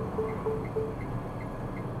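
Car turn-signal indicator ticking steadily, about three ticks a second, over the low rumble of the car in motion; a lower tone that marks each tick stops about a second in.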